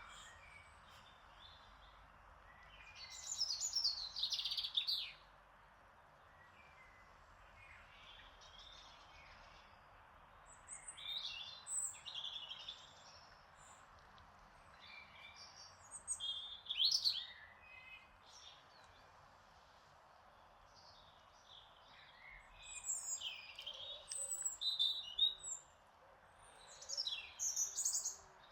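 Garden songbirds singing quick chirping and warbling phrases in bouts every few seconds, over a steady soft breeze.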